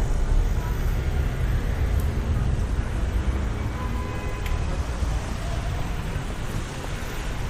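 City street ambience: a steady low rumble of traffic, with wind buffeting the microphone, easing slightly toward the end.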